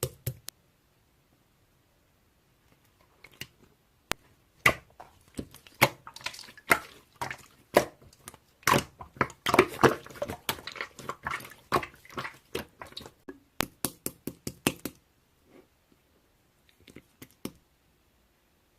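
Slime being squished and pressed by hand: a dense run of wet pops and clicks for about ten seconds, with quiet stretches before and after.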